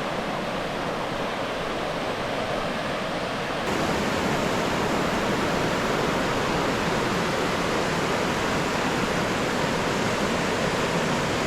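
Waterfall on a creek, water rushing steadily over rocks and running high after rain. The rush gets louder and brighter about four seconds in, then holds steady.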